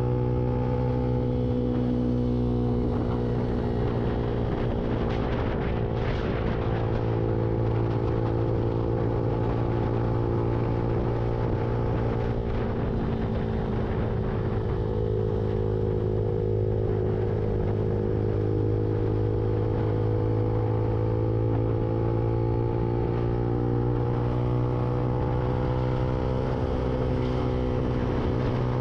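Lexmoto Viper motorcycle's engine running at a steady cruise, heard from on the bike, its pitch sagging slightly and rising again near the end, with road and wind rush underneath.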